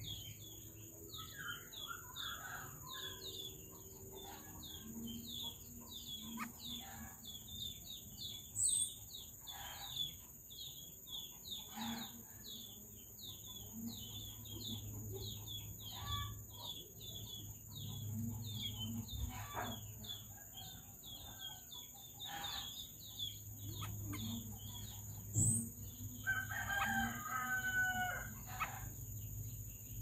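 Bird chirps, short high notes repeated rapidly about two or three times a second without a break, over a steady high-pitched insect drone. There are a few sharp knocks, and a rooster crows near the end.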